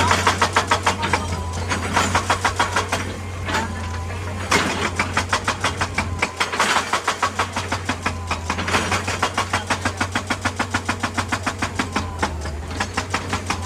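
Excavator-mounted hydraulic rock breaker hammering on rock: rapid, evenly spaced blows, several a second, in bursts of a few seconds with short pauses, over the steady hum of the excavator's diesel engine.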